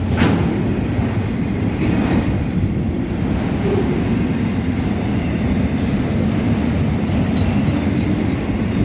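Mixed freight train rolling past at steady speed: a continuous rumble of wheels on rail, with sharp wheel clacks near the start and about two seconds in.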